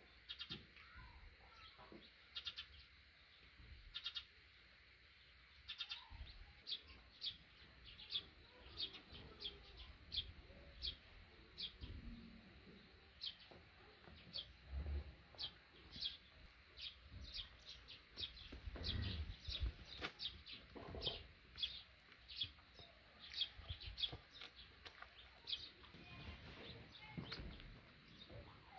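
Small birds chirping over and over, short high notes coming one or two a second, with faint knocks and handling sounds underneath.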